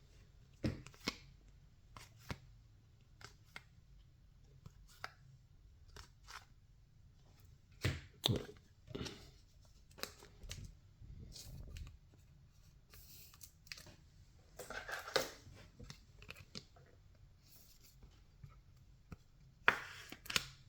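Baseball trading cards being handled and flipped through by hand: scattered sharp snaps and taps with short rustling, sliding bursts, a few louder ones about eight seconds in, around fifteen seconds and near the end.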